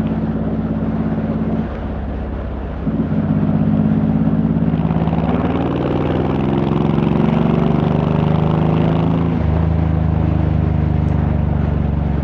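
Honda VTX1800's big V-twin engine running under way, heard from the rider's seat. It eases off briefly about two seconds in, then pulls with a slowly rising note that drops in pitch about nine seconds in.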